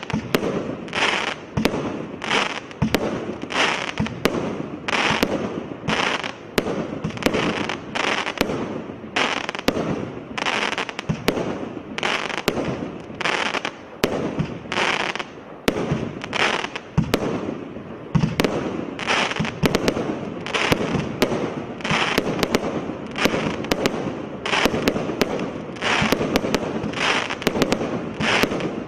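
Twisted Twins consumer firework cake firing shot after shot, about one a second, each a short loud blast with sharp cracks and crackle between them.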